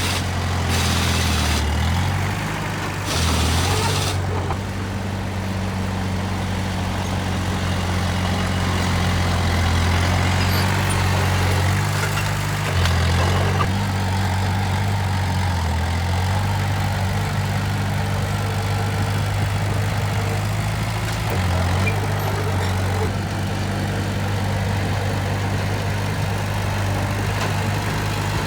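Heavy diesel engine of earthmoving machinery running steadily, its note shifting up and down every few seconds as it works. A few short hissing bursts come in the first four seconds.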